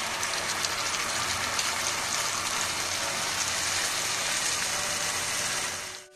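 A curd-based chilli sauce sizzling hard in hot oil in a frying pan, a steady loud hiss that cuts off abruptly at the very end.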